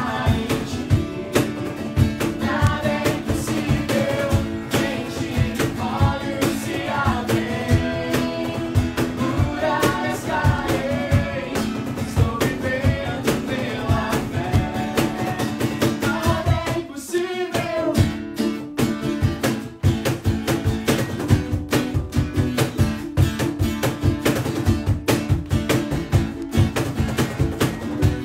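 Band music: a singer over guitar with a steady beat. The singing stops about 17 seconds in and the instruments play on.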